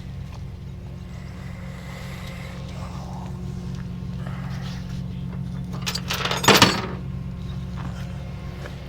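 A vehicle engine idling steadily with a low hum, with a short, loud noise about six and a half seconds in.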